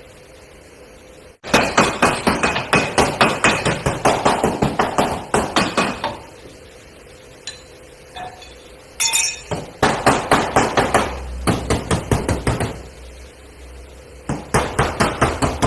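Hammer beating sheet metal in three runs of quick, even blows, about four or five a second, with short pauses between: panel beating out dents in a Toyota Hilux's body.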